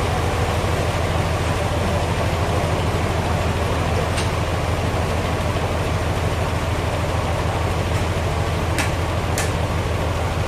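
Sawmill machinery running steadily with a constant low engine hum, and a couple of short sharp ticks near the end.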